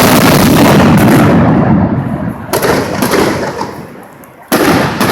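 Fireworks: a dense, continuous barrage of bursts for about the first second and a half that then fades away, followed by sharp single shell bursts about two and a half and three seconds in and a loud one near the end, each trailing off.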